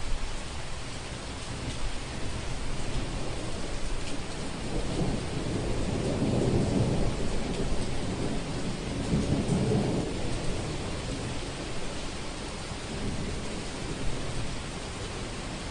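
Thunderstorm ambience: steady rain hiss with a long roll of thunder rumbling up about five seconds in, cresting twice and dying away after about ten seconds.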